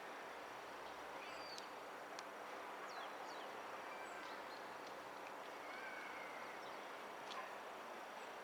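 Faint outdoor city ambience: a steady hum of distant traffic with short bird chirps scattered through it.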